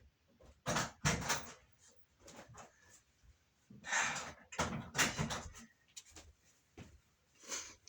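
Irregular clusters of sharp pops and knocks from a cracked bowling ball.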